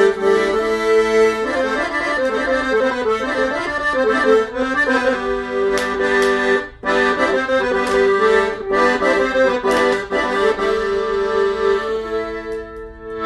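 Accordion playing a traditional dance tune, with held reedy chords under a melody and a brief break a little past halfway.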